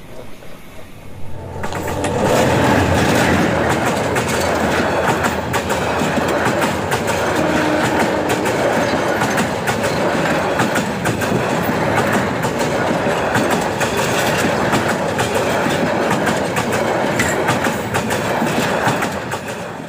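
Passenger train passing close by at speed, its wheels clattering over the track. The clatter starts about two seconds in and holds steady.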